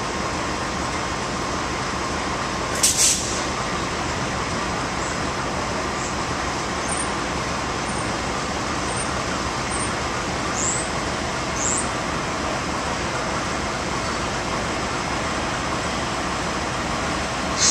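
Train running slowly, heard from on board: a steady rolling rumble and hiss. A short, loud hiss comes about three seconds in, and a few faint, short high squeaks come in the middle.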